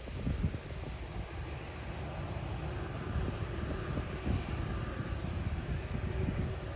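Jet engines of an Emirates Airbus A380 running at high power on take-off: a steady rush of engine noise over a deep rumble.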